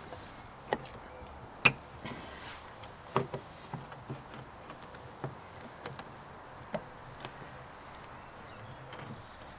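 Scattered clicks and light knocks of hand work on a car door mirror and its small screwed-on plastic cover, with one sharp knock a little under two seconds in and a brief hiss just after it.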